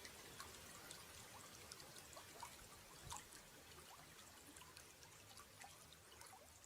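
Faint running water trickling and splashing, with many small bubbly drips, slowly getting quieter.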